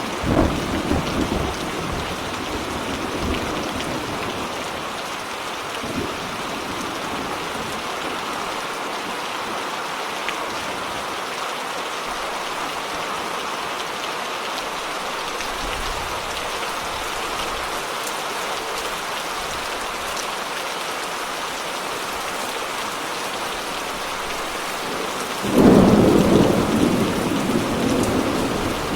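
Steady rain with thunder: a low rumble right at the start, then a sudden loud thunderclap about 25 seconds in that rolls on as it fades.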